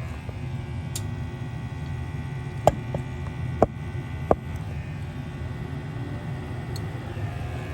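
Gas furnace draft inducer motor running with a steady hum, and three sharp clicks in its middle part.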